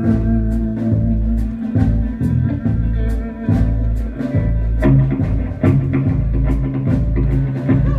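Live band playing an instrumental passage: guitar and bass over a steady drum beat, with no singing.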